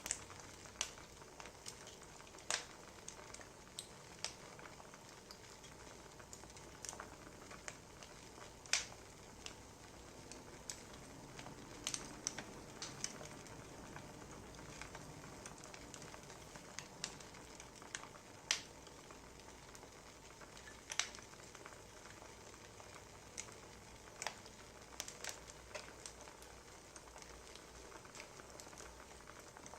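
Wood fire crackling: a soft steady hiss with irregular sharp pops and snaps of burning logs.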